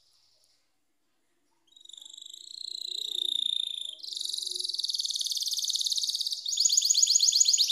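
Canary singing: after a near-silent start, high-pitched trills that grow louder and turn into a fast, rapidly repeated trill near the end.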